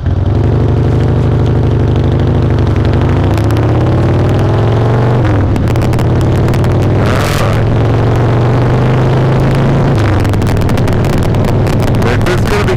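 Harley-Davidson V-twin engine pulling under way, its pitch rising for about five seconds before a gear change, then running steadier at cruise, with a short hiss of wind about seven seconds in. The recording sounds crackly and unclear.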